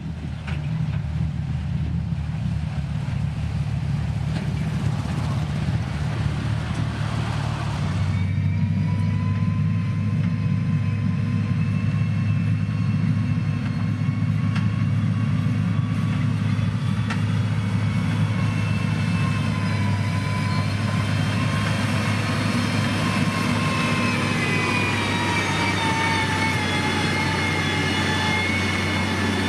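Motor grader's diesel engine running steadily. About eight seconds in, a high whine joins the low hum and sags slightly in pitch near the end.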